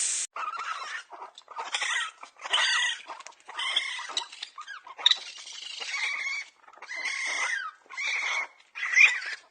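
An animal calling over and over, about nine separate calls of up to a second or so each, with short gaps between them.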